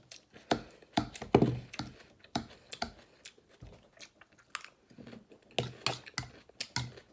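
A person chewing and crunching a mouthful of raw salad greens close to the microphone, with irregular crisp crunches and mouth clicks.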